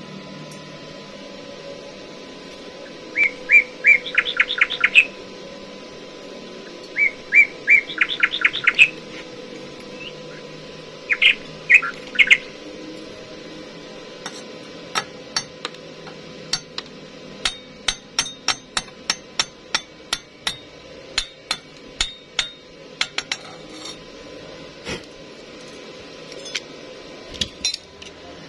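A songbird sings three short phrases, each a few repeated notes running into a quick trill, about four seconds apart. Then, from about halfway on, a run of sharp, irregular clicks or taps, a few a second, over a faint steady hum.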